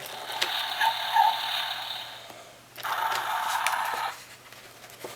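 Electronic sound effect from a Mattel Dusty toy plane's small speaker: a hiss that fades out over about two and a half seconds, then a second, shorter burst of hiss about a second long, with a few faint clicks.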